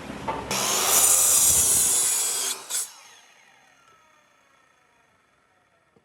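A power tool cutting into wood for about two seconds, then released, its motor winding down with a falling whine that fades away.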